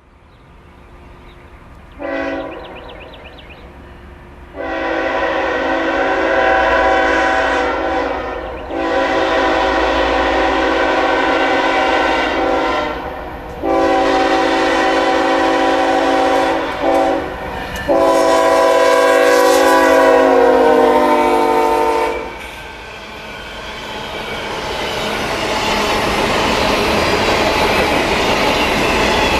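Locomotive multi-chime air horn sounding a brief toot, then a series of long blasts, from the lead unit of a Norfolk Southern freight train, an EMD SD70ACe. After the last blast, about 22 seconds in, the horn stops and a steadily rising rumble and wheel clatter of the approaching train take over.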